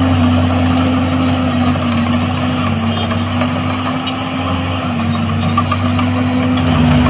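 Heavy construction machine's diesel engine running steadily under load, its note dipping slightly a few times and shifting lower near the end.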